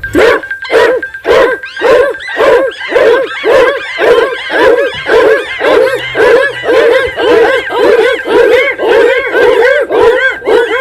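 An animal calling over and over, about two to three short calls a second, each call rising and falling in pitch, with a faint steady high tone underneath.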